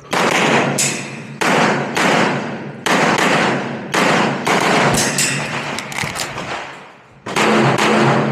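A string of pistol shots, most about a second apart, each one ringing out and fading, with a pause of about two seconds before the last two. Music plays faintly underneath near the end.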